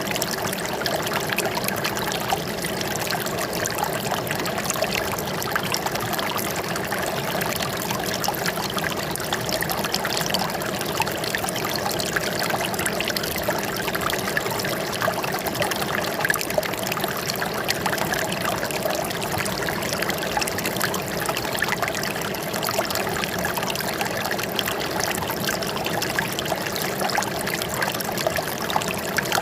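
Running water trickling and splashing steadily, with no pauses or changes.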